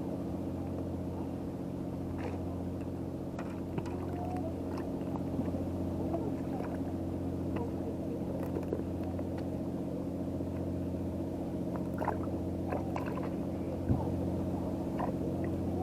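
An engine idling steadily: a low drone that holds one pitch throughout, with faint scattered clicks and taps over it.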